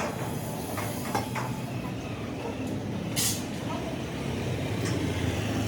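A large engine running steadily, with a few metallic clinks early and a short burst of hissing air about three seconds in.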